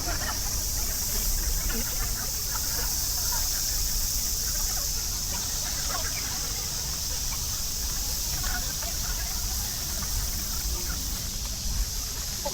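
Fast-forwarded walking ambience at 4× speed: a steady low rumble and a steady high hiss, with scattered short squeaky chirps, typical of passers-by's voices sped up.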